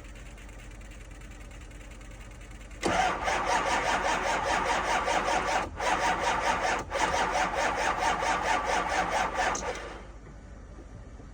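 Ford 6.0 Powerstroke V8 turbo-diesel cranking on its starter with a fast, even chugging for about seven seconds, then stopping without the engine catching: a cold-weather no-start. A faint steady hum is heard before the cranking begins.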